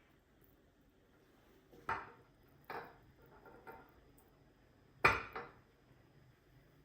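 A handful of short knocks and clatters of objects being handled or set down, spaced over a few seconds, the loudest about five seconds in.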